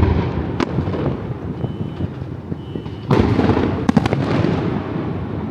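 Fireworks exploding overhead: a continuous rumble of booms with sharp cracks, and a loud cluster of bangs about three seconds in.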